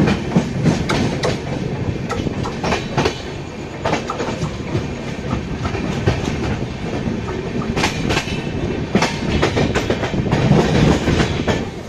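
Passenger express train running on the track: a loud steady rumble with irregular sharp clickety-clack of the coach wheels over rail joints.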